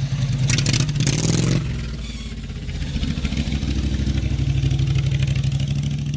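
Briggs & Stratton V-twin of a modified riding-mower hot rod running hard under throttle. Its pulsing exhaust note eases off about a second and a half in, then builds up again, with a burst of rushing hiss near the start.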